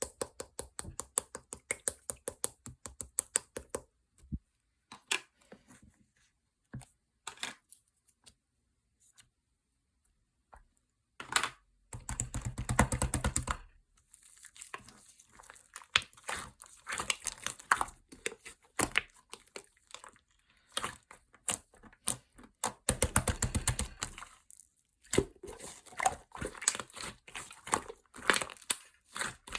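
Handling of a melon bread: crinkling plastic wrapping and bread being torn, with scattered clicks and taps. There are two longer, louder bursts of tearing and crinkling about twelve and twenty-three seconds in.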